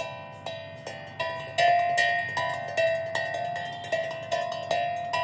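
Small 8-tone steel tongue drum played with the fingers: a run of single struck notes, about two or three a second at different pitches, each ringing and fading before the next.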